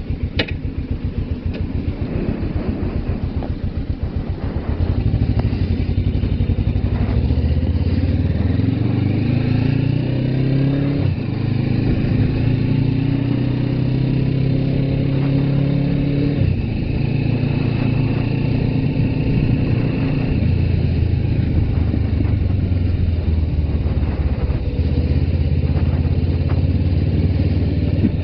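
Suzuki GS500F's parallel-twin engine ticking over with a slow pulsing beat, then about five seconds in getting louder as the bike pulls away, the engine note climbing and dropping back a few times as it goes up through the gears before settling into a steady run.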